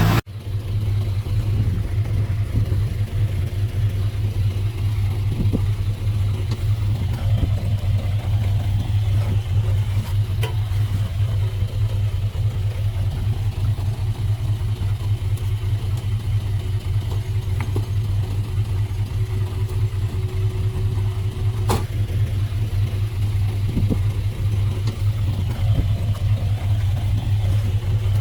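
Heavy diesel engine of an earthmoving machine running steadily at a constant low pitch, with an occasional sharp clank.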